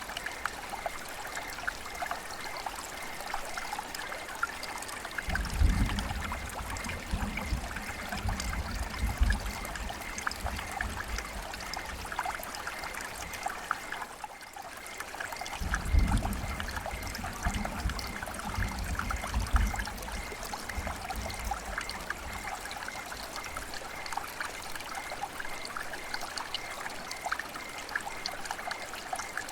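River water flowing and trickling steadily. Twice, for several seconds each time, a low rumble comes in underneath: about five seconds in, and again just past the middle.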